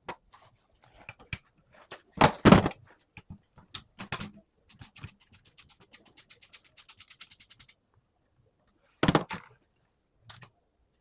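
Metal knocks from handling air dryer parts, then a ratchet wrench clicking quickly and evenly, about nine clicks a second for about three seconds, followed by two more knocks.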